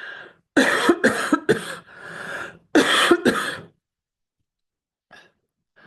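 A person coughing in a short fit: three loud coughs, a brief quieter breath, then two more coughs.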